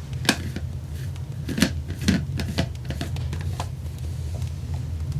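Irregular sharp clicks and knocks, about a dozen in a few seconds, over a steady low hum.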